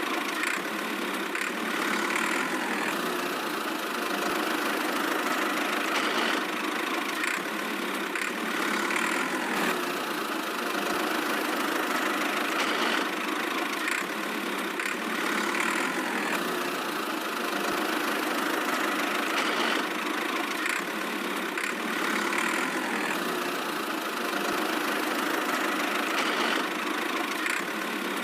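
Tractor engine running steadily at idle, with a slight swell that repeats every three to four seconds.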